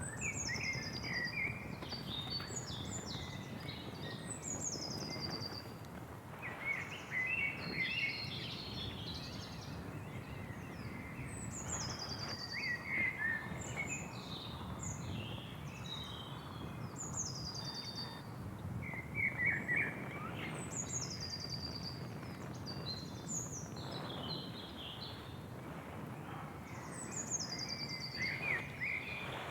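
Several wild birds singing and chirping. One bird repeats a high call that drops in pitch, about every four seconds. Under them is a steady low rushing noise.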